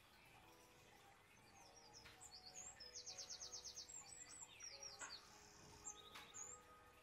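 Faint birdsong: a small songbird chirping in short, high notes that slide downward, with a fast trill about three seconds in. Quiet background music runs underneath.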